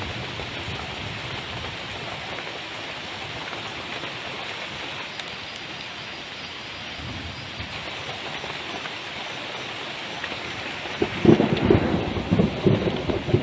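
Heavy rain falling steadily, a dense even hiss. About eleven seconds in, a run of irregular low thumps and crackles rises above it and is the loudest part.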